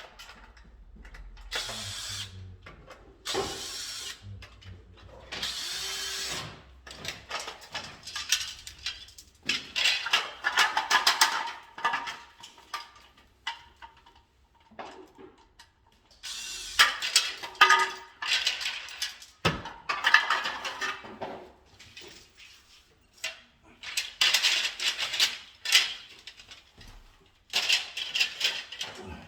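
A power drill-driver run in repeated short bursts of a second or two each, with clicks and rattles of parts being handled between the bursts.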